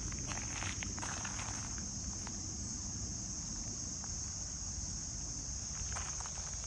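Crickets trilling in a steady, high-pitched chorus, with a few footsteps and rustles in the first second or so and again near the end, over a low rumble of wind on the microphone.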